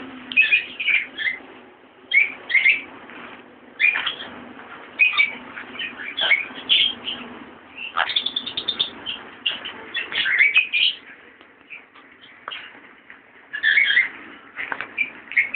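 Pet parrot making short, high chirping calls in clusters every second or two while being hand-fed, with a few sharp clicks between them.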